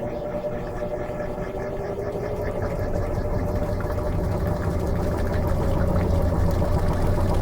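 Electrolux LM13Q top-load washing machine running: a steady motor hum with a low rumble that grows stronger about two and a half seconds in.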